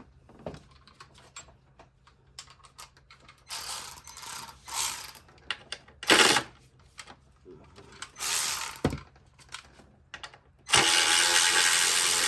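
Hand ratchet wrench clicking in several short bursts as bolts are worked in an engine bay, with small tool clicks between them and a longer, louder run of ratcheting near the end.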